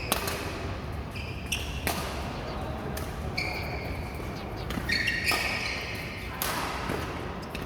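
Badminton rally in a hall: sharp racket strikes on the shuttlecock about every one to two seconds, with short high shoe squeaks on the court between hits.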